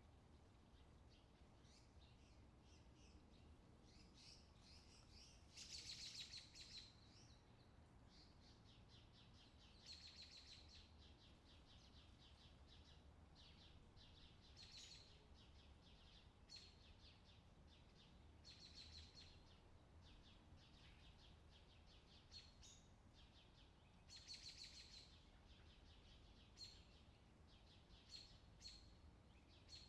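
Faint outdoor summer ambience: birds chirping, with short high trills every few seconds over a low, steady background rumble.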